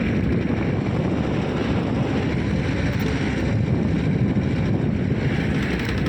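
Wind buffeting the microphone: a steady, rough low rumble with no distinct events.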